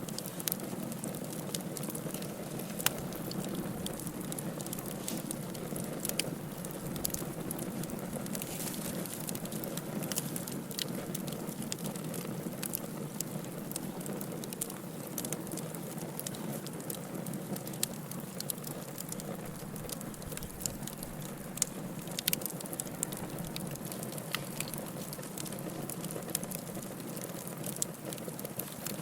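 Wood fire burning in a fireplace: a steady low rushing of flames with frequent sharp crackles and pops at irregular intervals.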